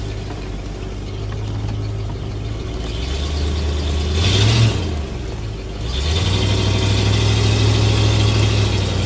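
Truck engine running, heard from inside the cab, its note rising as the engine picks up revs about three seconds in and again about six seconds in. A brief rush of noise comes around the four-to-five-second mark.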